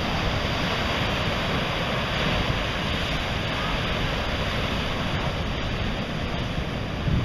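Ocean surf washing steadily onto the beach, a continuous rushing noise.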